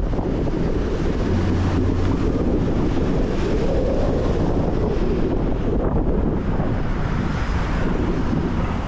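A car driving on wet streets in a rainstorm: tyre, rain and wind noise with a deep rumble underneath, holding steady throughout.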